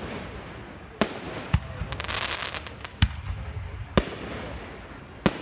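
Aerial fireworks bursting: five sharp bangs, roughly a second apart, with a spell of dense crackling about two seconds in.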